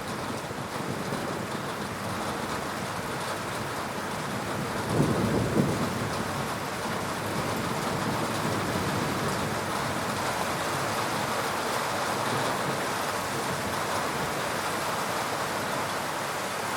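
Heavy rain falling steadily during a thunderstorm, with a brief low rumble of thunder about five seconds in.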